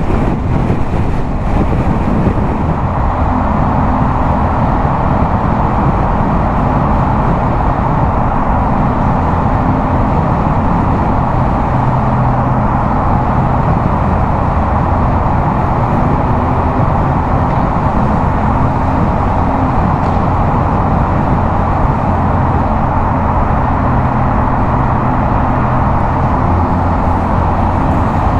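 Yamaha MT-07's 689 cc parallel-twin engine running steadily at highway cruising speed through a LeoVince aftermarket exhaust, its pitch shifting slightly, over a steady rush of wind and road noise.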